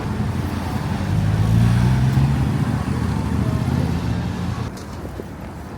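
Motor vehicle passing on a city street: a low engine hum swells about a second in and fades away near the end, over steady traffic noise.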